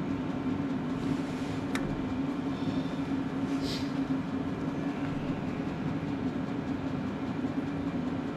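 A steady mechanical hum that does not change, with a faint click about two seconds in.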